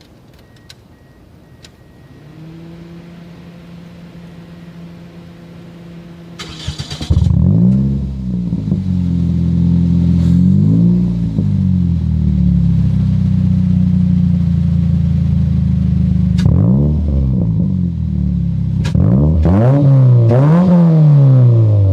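Toyota Matrix with an aftermarket N1 exhaust starting up: a low steady hum, then a brief crank about six and a half seconds in before the engine catches and idles loudly. It is revved several times, each rev rising and falling in pitch, with the revs coming closer together near the end.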